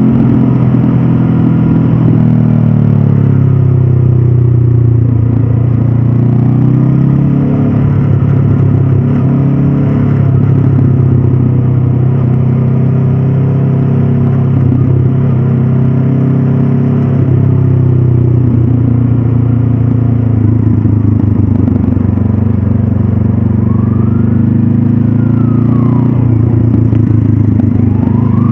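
Honda CB500F's 471 cc parallel-twin engine running steadily under way, with two brief rises and falls in pitch near the end.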